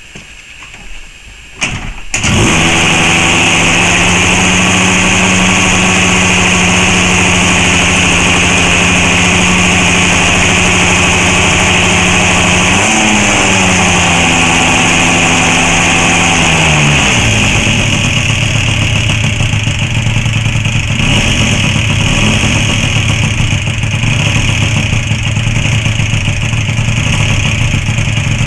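Gilera Runner scooter's ported 74cc DR Evo two-stroke engine, with a Yasuni Z exhaust, on its first start after a top-end rebuild: it catches about two seconds in and runs at a high, steady fast idle. Near halfway it rises briefly, and about two thirds through it drops to a lower, choppier idle.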